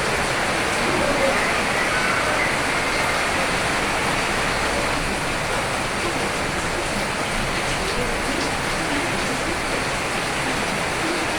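Rain falling steadily, an even hiss with no breaks or changes.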